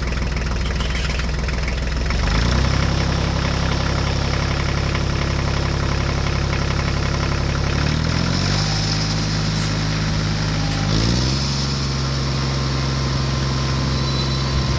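A toy tractor's electronic engine sound running steadily like an idling diesel, its pitch stepping up abruptly about two seconds in and shifting again around eight and eleven seconds.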